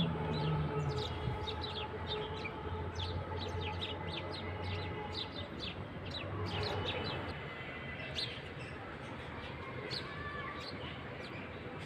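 Small birds chirping: many quick, short, high calls that overlap, over a faint low hum.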